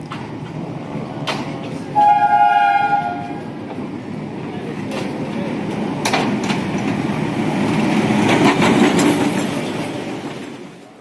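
Diesel locomotive arriving at a station: one horn blast of about a second and a half about two seconds in, then the engine running and the wheels clattering, growing louder as it draws alongside and fading near the end.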